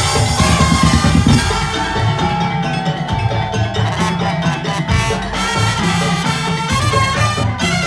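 Madurese tong-tong (musik tongtong) ensemble playing: a steady, driving drum beat under melodic percussion lines.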